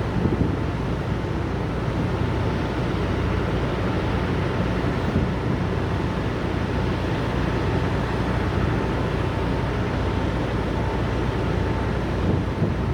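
Steady low drone of idling diesel truck engines, with wind buffeting the microphone.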